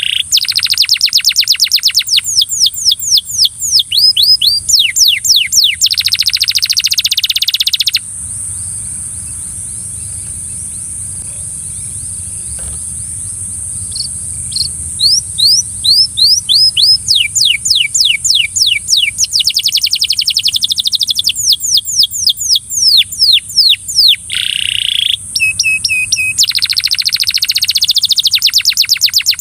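Belgian canary singing: long phrases of fast repeated trills, each note a quick sweep in pitch, with the song stopping for about six seconds in the middle before starting again. A steady high-pitched hiss runs underneath.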